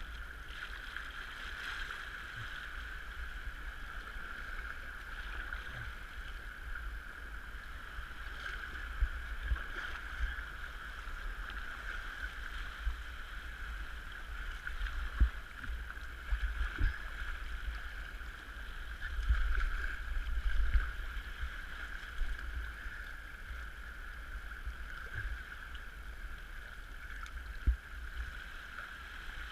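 Sea kayak out on open water: a steady wash of water along the hull under a constant low rumble, with a few sharp knocks now and then.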